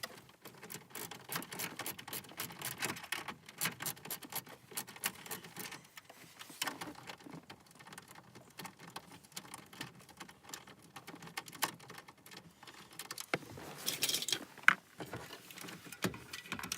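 Rapid, irregular clicking and small metallic rattles of a hand tool backing out the mounting bolts of a car radio head unit in the dash, with a few louder clacks near the end.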